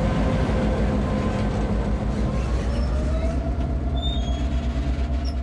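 Train rolling past at close range, a locomotive followed by passenger cars: a loud, steady rumble of wheels on rail that pulses quickly. A faint thin squeal of wheels comes in about halfway through.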